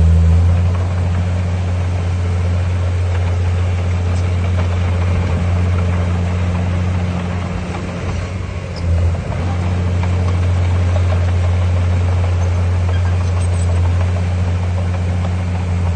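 Heavy diesel engine of a construction machine running steadily with a deep drone, easing briefly about nine seconds in.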